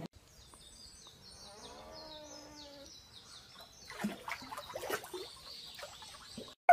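Small birds chirping in a quick series of high notes, with a short whining call about a second and a half in. Scattered splashes and knocks follow around four to five seconds in.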